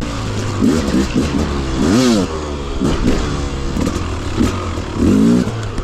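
Beta RR300 two-stroke enduro motorcycle engine revving up and down repeatedly as the bike is ridden, with a sharp rise and fall about two seconds in and another burst near the end. The engine is freshly rebuilt and being run in.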